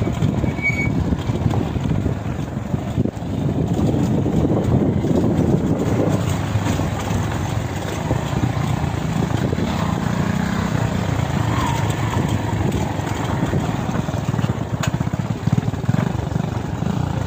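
Motorcycle engine running steadily, with an uneven low throb.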